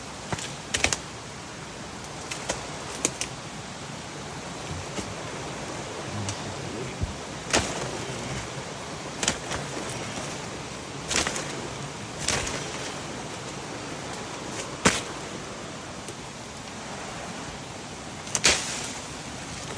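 Steady rushing water noise from a rain-swollen river, broken by a dozen or so sharp snaps and knocks at irregular intervals, the loudest about halfway through and near the end.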